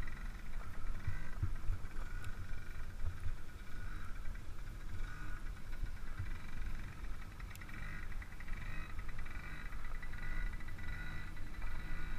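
A child's small dirt bike engine buzzes steadily a little way off, its fast pulsing note rising and falling with the throttle. Under it runs a constant low rumble of wind and tyres on the microphone.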